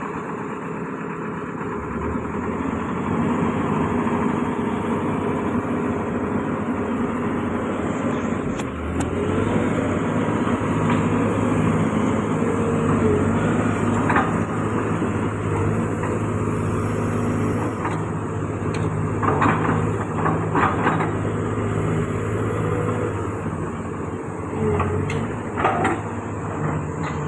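Heavy-equipment diesel engine running steadily, with a few short metallic clanks and rattles.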